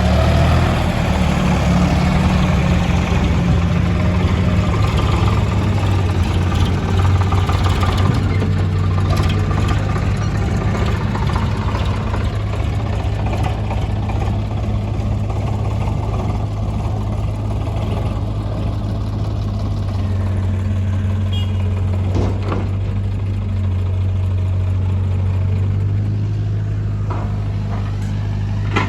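Sonalika DI-35 RX tractor's diesel engine running steadily. It is louder and harsher over the first several seconds, then settles to an even run, with a few short knocks in the second half.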